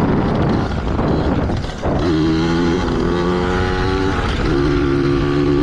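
Yamaha PW80's small two-stroke single-cylinder engine running under throttle. It dips briefly just before two seconds in, then pulls on at a steady pitch.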